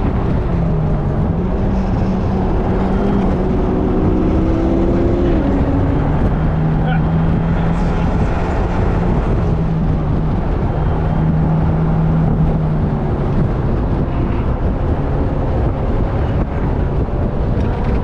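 Car engine at speed on a race track, heard from inside the cabin under heavy wind and road noise; the engine note dips and climbs in the first few seconds, then holds steady for several seconds before sinking into the noise.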